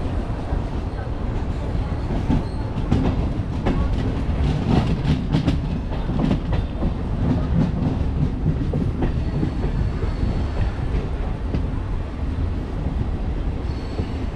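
MEMU electric passenger train running along the track, heard from an open coach door: a steady low rumble of wheels on rails, with a run of clicks and clatters over rail joints and points a few seconds in.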